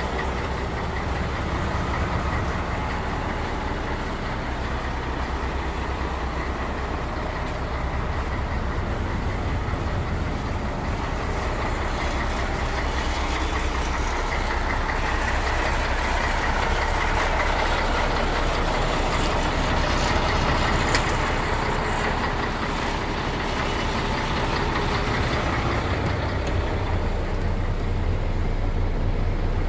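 Diesel engine of a MAN 33.403 6x4 tipper truck idling steadily, a low even running note; a rougher, broader noise swells for several seconds midway and then settles.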